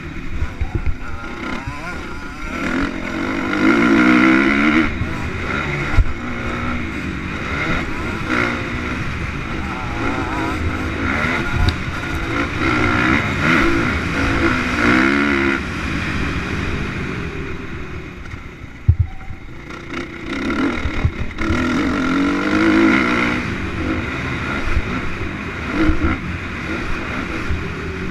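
Motocross motorcycles revving on the track, the engine pitch rising and falling as they accelerate and shift. It swells loudest about four seconds in, again around the middle and once more near the end, with a few sharp knocks in between.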